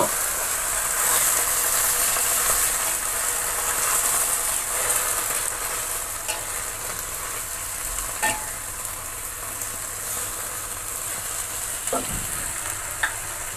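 Genjer (yellow velvetleaf) greens sizzling in a wok with a splash of water as they are stir-fried with a spatula, the sizzle slowly easing off. A few sharp taps of the spatula against the wok come in the second half.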